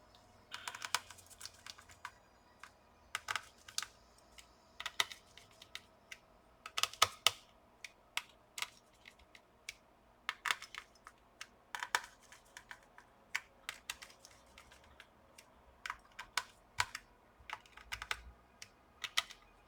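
Irregular small clicks and taps, in little clusters every second or so, from a small screwdriver and screws being worked into a laptop's heatsink cooler as it is tightened down onto the board.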